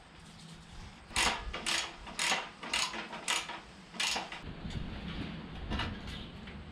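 A run of six short, sharp metallic blows, about two a second, followed by lower clattering of metal parts being worked on a vehicle chassis.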